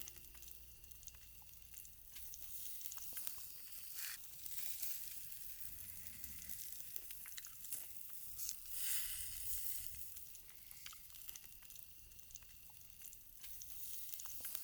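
Faint, steady sizzling of food cooking, with scattered small crackles.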